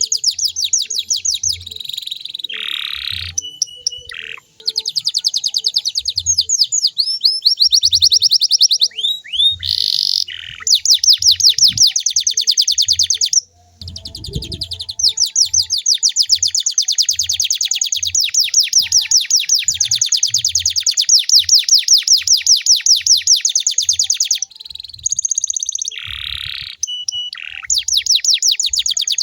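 Canary singing long rolling trills of rapid repeated high notes, in runs of several seconds broken by brief pauses.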